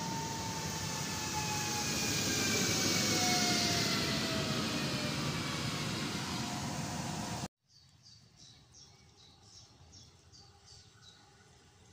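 Newag Impuls train running close by: a steady rushing noise with whining tones that slowly fall in pitch. It cuts off suddenly about seven and a half seconds in, leaving a quiet stretch with a bird chirping about a dozen times.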